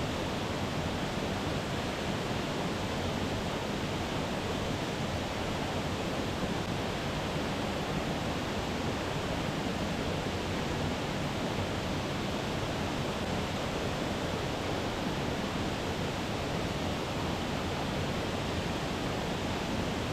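Water falling down a tall waterfall, a steady, unbroken rush of noise.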